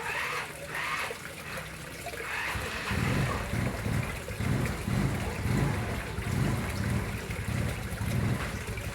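Water trickling and flowing into a koi pond, a steady splashing hiss. About three seconds in, a low, uneven rumble joins it and pulses about twice a second.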